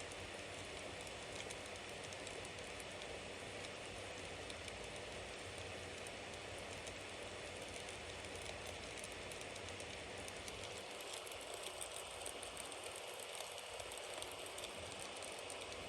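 Bonfire burning: a steady hiss of flames with light crackles and small pops scattered throughout.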